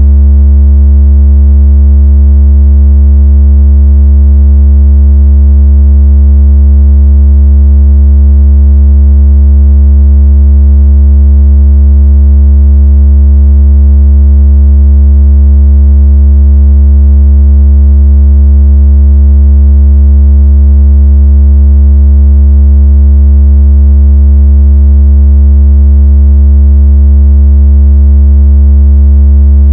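A loud, deep, steady electronic tone with a buzzy ladder of overtones, held without change: a synthesized speaker-cleaning tone of the kind played to shake water out of a phone speaker.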